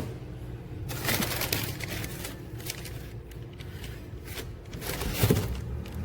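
Handling noises: scattered scrapes, rustles and a few knocks, busiest about a second in and again near the end, over a low steady hum.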